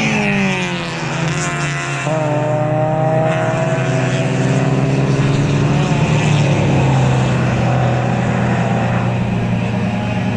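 Race cars driving past one after another at speed. One engine note drops in pitch as a car goes by near the start, and from about two seconds in another engine climbs slowly in pitch as it pulls away.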